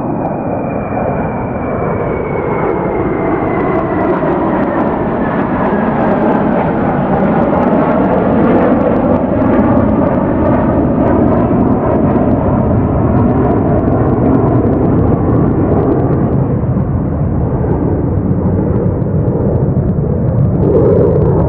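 Jet aircraft engine running loud: a high whine that falls in pitch over the first few seconds, under a dense rushing noise that grows louder for several seconds and then holds steady, with a short louder burst near the end.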